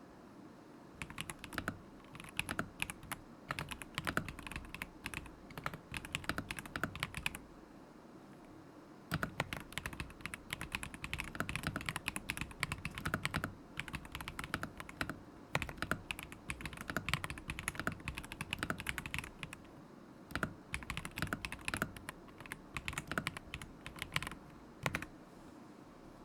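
Typing on a KZZI K75 Pro mechanical keyboard with linear switches: quick runs of key clacks broken by short pauses, with a few last keystrokes near the end.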